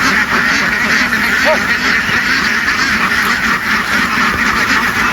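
A large flock of ducks quacking all at once, a dense unbroken din of many overlapping calls.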